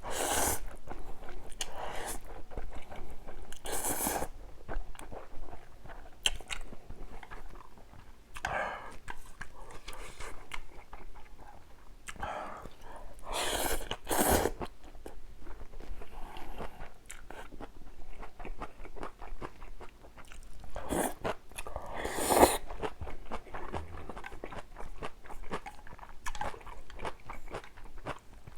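A person eating spicy ramyun and kimchi close to the microphone: steady chewing with crunchy bites, broken by about six louder, noisy bursts of around half a second each.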